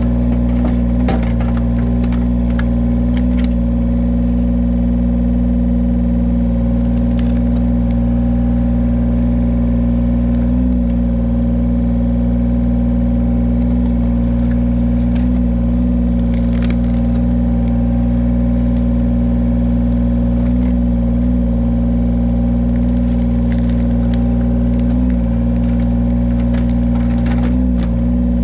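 Engine of a hydraulic firewood-splitting machine running steadily. Its pitch dips briefly under load about nine times, with occasional sharp cracks as wood is split.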